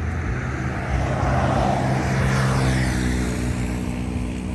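A heavy truck passing close by on the highway: a low, steady engine drone under a rush of tyre and air noise that swells to a peak about two seconds in and then fades.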